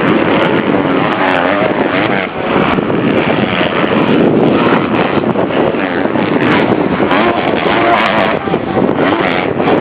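Several motocross motorcycles racing, their engines revving up and down over one another without pause.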